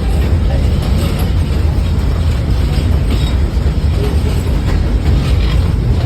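Passenger train rolling along the track: a steady low rumble with occasional light clicks and rattles.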